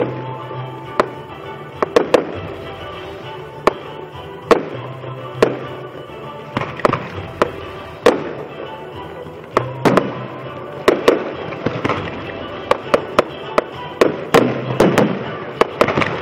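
Aerial fireworks shells bursting in a series of sharp bangs, about one a second and coming thicker toward the end, with music playing throughout.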